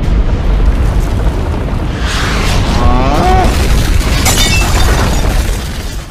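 Deep, loud rumbling boom of an eruption or explosion, with crashing, shattering debris from about two seconds in and a brief rising cry-like tone around three seconds; it fades just before the end.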